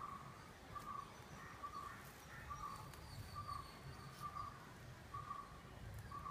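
A bird calling one short note over and over, about once a second, over faint low outdoor background noise.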